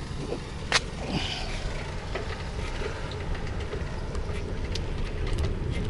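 Steady low rumble of riding along on a two-wheeler, with road and wind noise on the microphone. There is one sharp click about three-quarters of a second in, and a few faint ticks after it.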